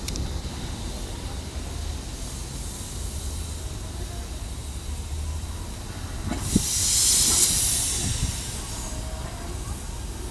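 Steam locomotive standing with a steady low rumble; about six seconds in it lets off a loud hiss of steam lasting around two seconds, with a sharp clank just as the hiss begins.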